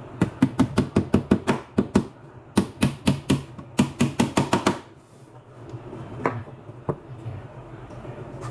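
Hammer striking nails in quick runs of sharp blows, about six a second, in three bursts, then two single strikes near the end, over a steady low hum.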